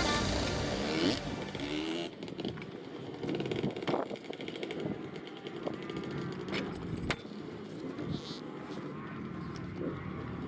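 Faint motocross motorcycle engines running, with a few sharp clicks and knocks scattered through.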